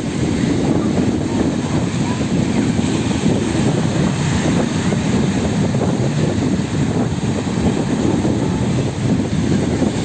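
Wind buffeting the microphone in a steady low rumble over the sound of sea water.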